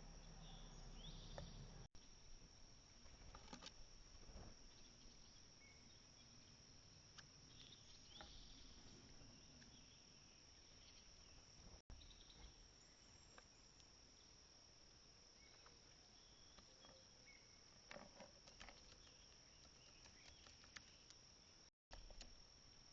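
Crickets trilling faintly and steadily at a high pitch, with a few faint bird chirps and small scattered clicks.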